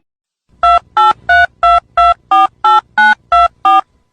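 Telephone keypad tones: a number being dialled as about ten quick two-tone beeps, roughly three a second.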